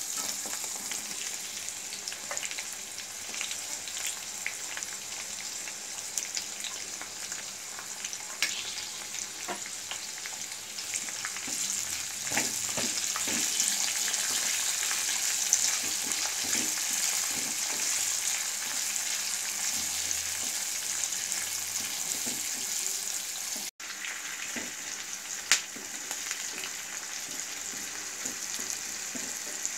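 Hot oil sizzling in an iron kadai as green chillies, curry leaves and sliced onions fry, with a spatula scraping and clicking against the pan as it stirs. The sizzle grows louder about twelve seconds in, and there is a single sharp knock a few seconds before the end.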